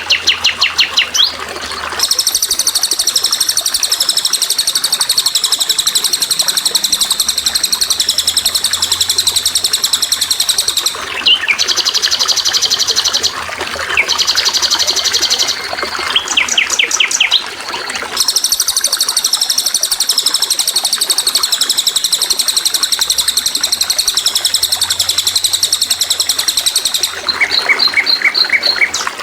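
A songbird singing long, fast, high-pitched trills in several bouts lasting many seconds each, with short breaks between them.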